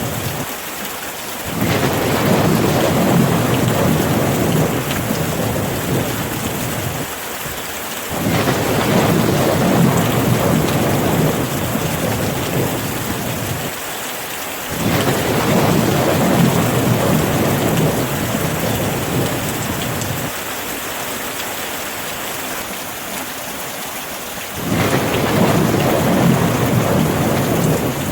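Steady rain falling, with rolling thunder: four low rumbles, each starting suddenly and fading slowly over several seconds.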